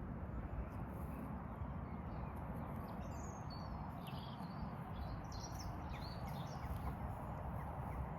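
Small songbirds chirping in short high calls, most of them in the middle few seconds, over a steady low rumble of wind or handling noise on the microphone.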